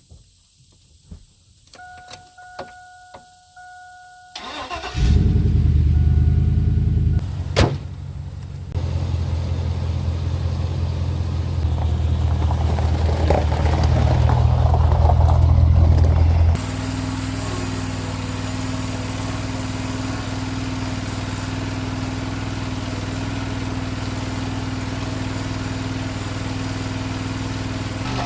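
A few clicks and a short repeated electronic beeping. Then the truck's engine starts about five seconds in and runs, with a sharp knock shortly after. It settles into a steady, even running sound for the second half.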